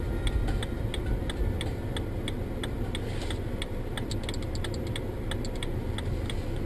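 Steady low rumble of a car on the road, heard from inside the cabin, with a regular ticking of about two to three clicks a second.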